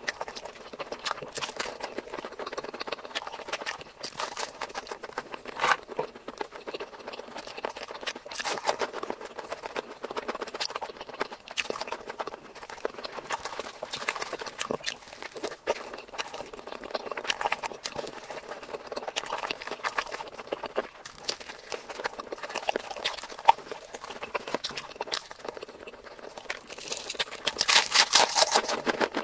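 Close-miked eating: wet chewing and lip smacking in a steady run of small irregular clicks, growing louder and denser near the end.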